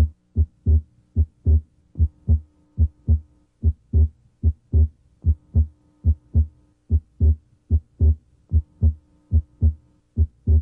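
Heart sounds heard through a stethoscope diaphragm at the left sternal border: a steady lub-dub of first and second heart sounds at roughly 85 beats a minute, with the second sound split, over a faint steady hum.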